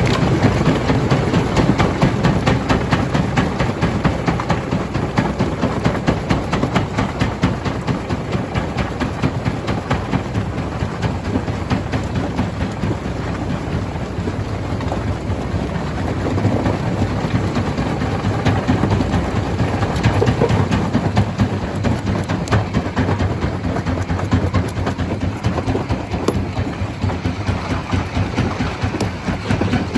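Stone crusher running, a steady low rumble under a dense, continuous clatter of rock being crushed.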